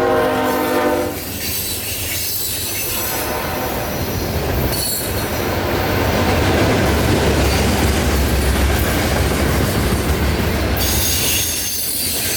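A CSX freight train's locomotive horn sounds a chord that cuts off about a second in, then the train rolls past with clickety-clack and high-pitched wheel squeal over the deep rumble of the locomotives.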